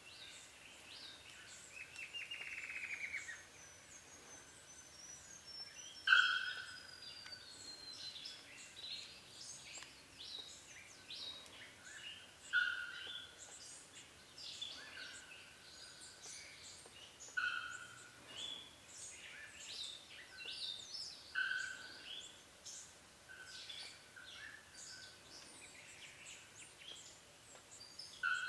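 Wild birds calling: one bird repeats a short, clear note every two to four seconds over scattered higher chirps from others, with a long falling whistle a few seconds in.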